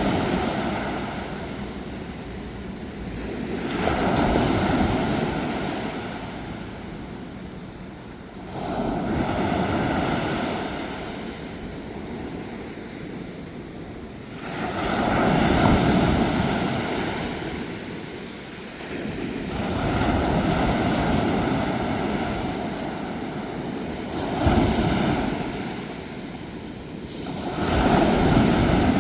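Ocean waves breaking on a shore: the surf swells up and draws back about every five seconds.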